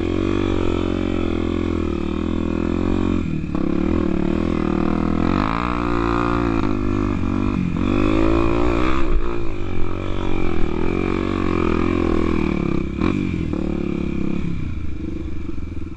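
Trail motorcycle engine running hard, its pitch rising and falling repeatedly as the throttle is worked over rough ground, with a few brief knocks.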